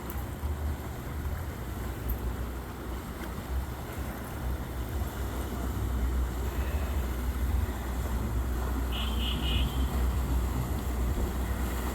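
Low, steady rumble of motorboat engines passing in the canal, with wind buffeting the microphone, growing a little louder in the second half. A brief high chirping sound comes about nine seconds in.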